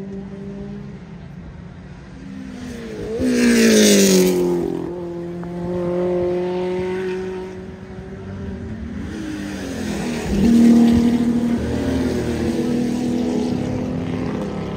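Racing engines revving and passing. One goes by loudly about four seconds in, its pitch falling as it passes, and a second loud rev comes at about ten and a half seconds.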